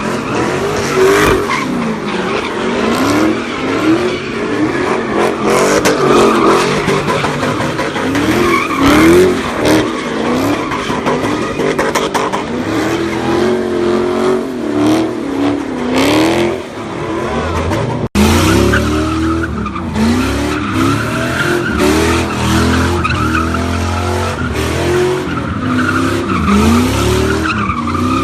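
A car spinning donuts with its engine revving up and falling back again and again while the tires squeal. There is a sudden break about two-thirds of the way through, then the revving and tire squeal pick up again.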